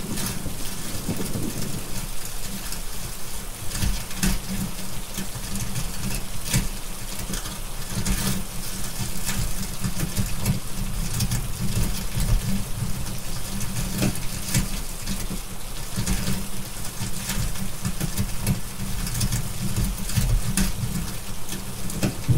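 Steady rain hiss mixed with irregular pops and crackles of a burning fireplace, over a low, steady rumble.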